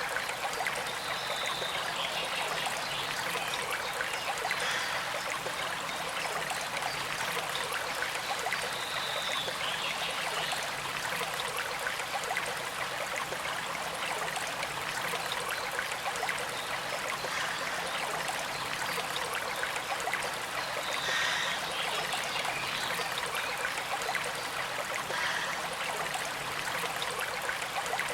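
Small creek flowing and trickling steadily, an even rush of running water, with a few brief higher sounds over it now and then.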